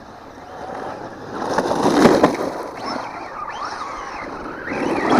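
Traxxas Ford Fiesta ST VXL 1/10 rally RC car running on 6S: electric motor whine rising and falling with the throttle, over a rushing tyre noise. The sound swells as the car comes close about two seconds in and again near the end.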